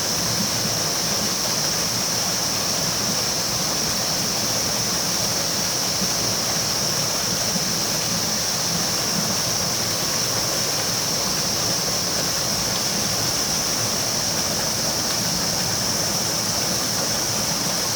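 River water flowing steadily, an even rushing noise with a constant high hiss over it.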